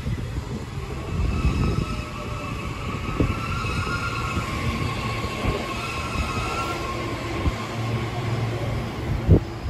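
Nishitetsu electric train moving through the station: a low rumble under high, wavering squealing tones, with a sharp knock near the end.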